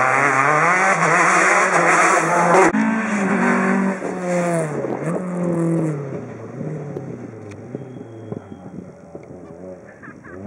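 Rally car engine revving hard as it passes close, its pitch climbing and dropping through several gear changes. It is loudest in the first few seconds, then fades as the car drives off.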